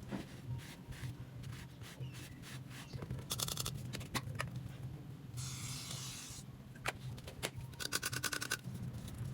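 Makeup tools rubbing and scratching against a coconut shell, with scattered clicks, two quick runs of rapid ticking, and a hiss-like stretch of about a second just past the middle.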